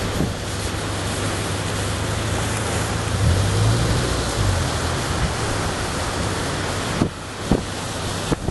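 Rough sea surf: a steady rushing roar of breaking waves, with a few short wind buffets on the microphone near the end.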